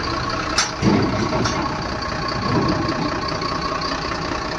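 Heavy vehicle's diesel engine idling steadily, with one sharp click about half a second in.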